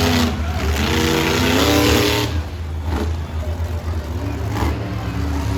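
Monster truck engine running loud, revving and rising in pitch in the first two seconds, then easing off a little past two seconds in.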